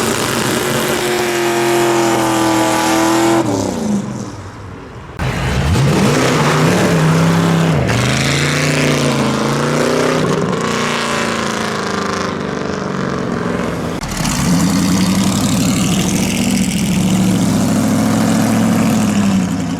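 Loud car engines pulling away and accelerating, the engine pitch climbing, holding and dropping as the revs change. There is a brief lull about four seconds in before engine noise picks up again.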